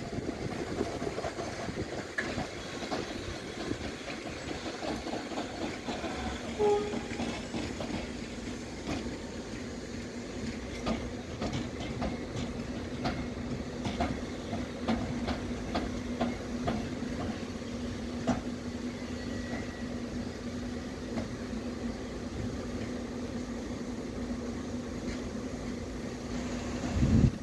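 Passenger coaches of a slow-moving train rolling past, their wheels clicking irregularly over the rail joints, with a steady low hum through most of the pass.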